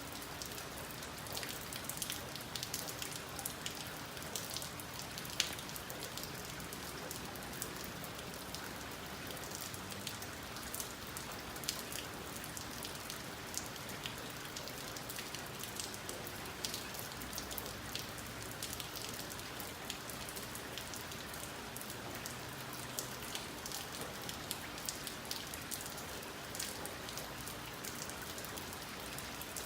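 Steady rain falling, with many sharp drop ticks scattered through a constant patter, under a faint steady low hum.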